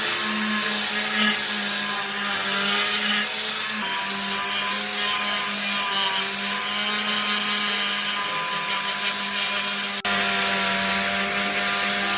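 An electric power tool's motor running steadily with a constant hum, working on metal, with an abrupt change about ten seconds in.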